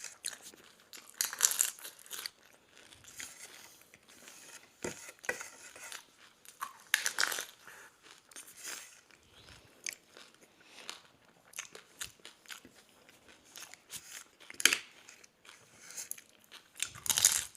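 A person biting into doi fuchka, crisp hollow puri shells filled with yogurt, one after another: irregular crunches and chewing, picked up close to the mic.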